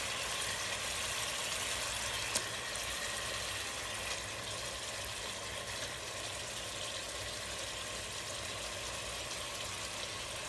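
Steady sizzling of curry masala frying in a pan as raw beef koftas are laid into it, with a sharp click about two seconds in.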